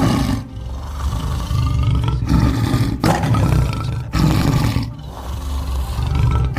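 A big cat roaring: a series of deep, rough roars, one about every second with short breaks between them.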